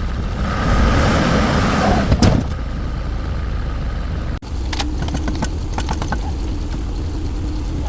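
A heavy vehicle's engine running, in two stretches that change abruptly about four and a half seconds in, with a sharp knock near the two-second mark.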